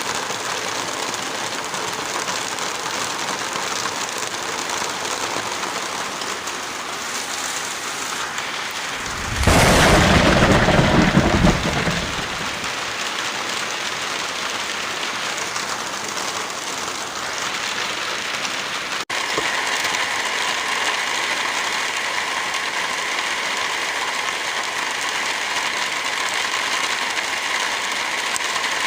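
Heavy rain falling steadily with an even hiss. About a third of the way in, a louder, deeper rush lasts about two seconds. Past the middle the sound drops out for an instant and returns with a steady hum of several tones under the rain.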